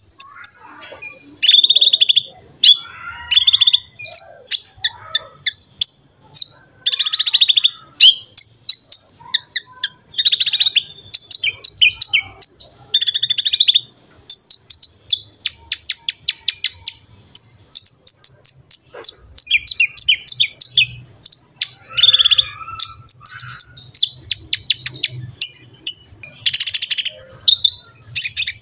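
A sunbird, the konin or kolibri ninja, singing loudly in burst after burst of high, fast trills and rapid chirp series.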